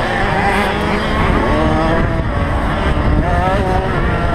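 Several small motocross bike engines revving together, their pitch rising and falling as the riders open and close the throttle.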